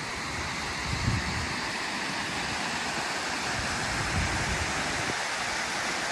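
Steady rush of a fast mountain river, with two short low buffets of wind on the microphone, about a second in and again after four seconds.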